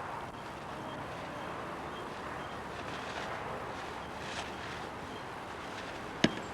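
Steady wind noise on an old camcorder's microphone, with a single sharp click a little after six seconds in.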